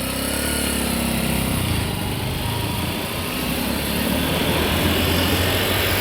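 Motor vehicle engine running steadily while driving, a little louder in the second half.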